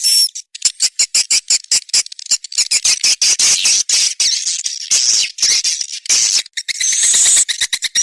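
Swiftlet lure-call track: a rapid, high-pitched chattering twitter of swiftlets with fast clicks, several a second, and a short squealing trill near the start and again near the end. It is the kind of call played in swiftlet nesting houses to draw the birds in.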